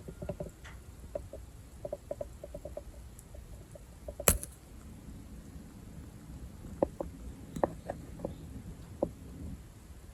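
Close-miked keratin plugs being pulled out of scalp pores, making small soft pops and clicks in quick clusters. One much sharper click comes about four seconds in, and scattered pops follow near the end.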